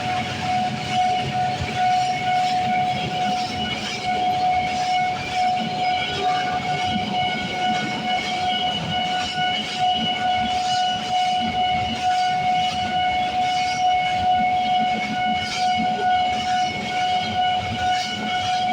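A train rolling past, with a steady high-pitched tone held throughout and faint, repeated clicks over a continuous rumble.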